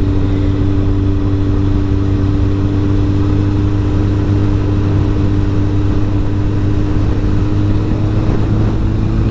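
Sport motorcycle engine running at a steady cruising speed in a high gear, with wind noise. The engine note rises slightly near the end.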